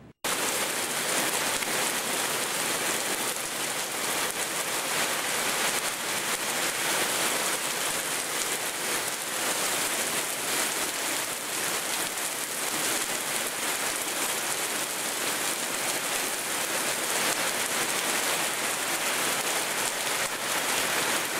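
Heavy downpour of thunderstorm rain, a dense steady hiss of rain pouring onto trees and the roof of a parked car.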